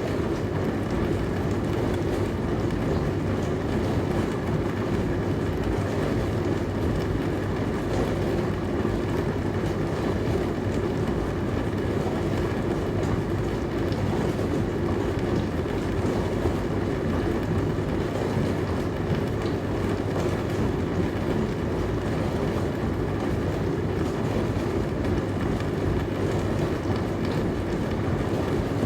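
Dishwasher running: a steady rumble of water spraying inside the tub with a low motor hum beneath it.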